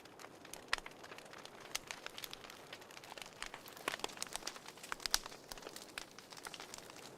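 Wood fire in a fireplace crackling: irregular sharp pops and snaps over a faint steady hiss, with the loudest snaps under a second in, around four seconds in and just after five seconds.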